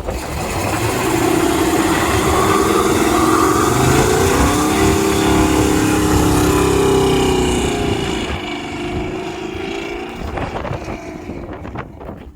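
Mini bike's small engine revving as it goes by, its pitch and loudness rising and then falling away, before the sound cuts off suddenly at the end.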